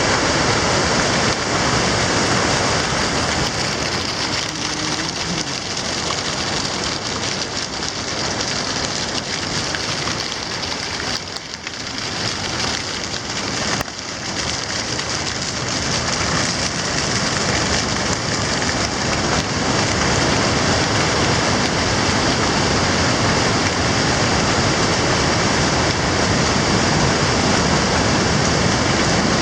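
Steady rushing water, dipping briefly in level about halfway through.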